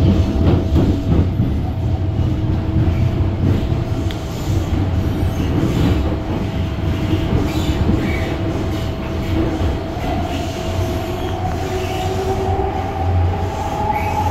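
MTR M-Train running between stations, heard from inside the car: a steady rumble of wheels on rail with a continuous high tone, and a second tone that rises over the last few seconds.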